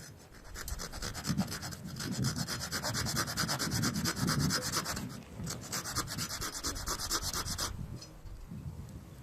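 Fast, even rubbing or scraping strokes, with a short break about five seconds in, stopping just before eight seconds.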